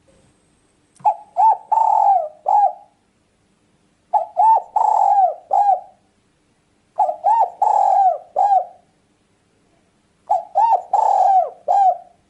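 Spotted dove cooing: four phrases evenly repeated about every three seconds, each of two short coos, a longer drawn coo and a short closing coo.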